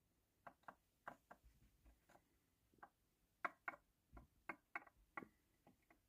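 Near silence broken by faint, short clicks or taps, about fifteen of them at uneven intervals.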